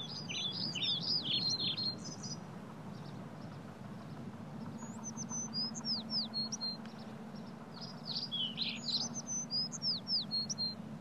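A songbird singing three phrases of quick, high whistled notes, many sliding downward, over a low steady hum.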